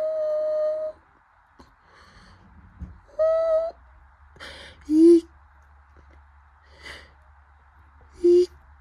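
Bridgestone Altus Newing washing machine on its final spin, a steady low hum. Over it come several loud hoot-like pitched calls: one held for about a second at the start, a shorter one after about three seconds, and two brief lower ones about halfway through and near the end.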